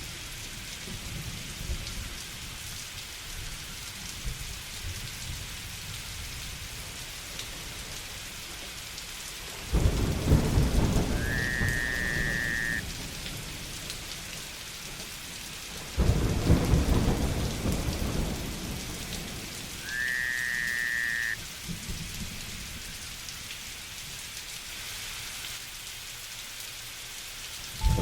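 Steady rain with two sudden loud thunderclaps, about ten and sixteen seconds in, each fading into a rumble over a few seconds. A short whistled call, rising at its start, sounds twice over the rain.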